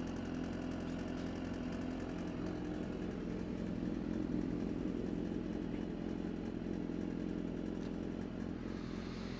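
A steady engine drone at a constant pitch, with no revving.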